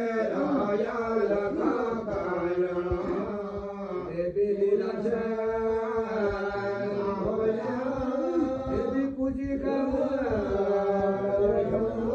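Several voices chanting a Hindu devotional hymn together in a continuous, drawn-out melody without pauses.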